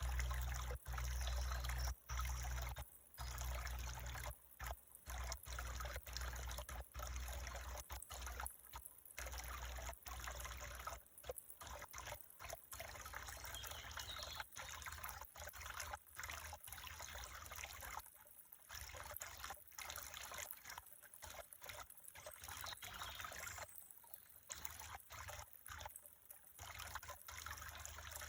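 Water trickling, a steady splashing flow with many brief drop-outs.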